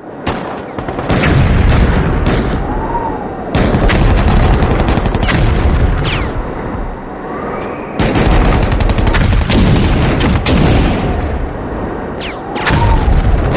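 Battle sound effects: dense gunfire and explosions running in loud waves, with sharp new onsets a few seconds apart.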